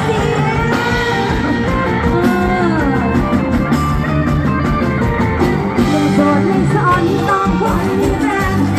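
Live band music with a singer: amplified instruments and a steady beat under a bending, gliding vocal line.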